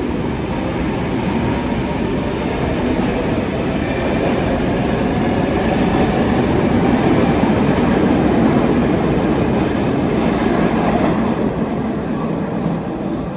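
Stockholm Metro train running on the rails, a steady loud rumble with faint whining tones that builds gradually and eases off near the end.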